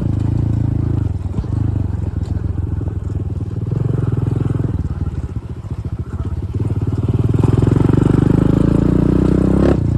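Dirt bike engine running, revs falling off after about a second, then rising again and loudest over the last few seconds, with a short sharp click near the end.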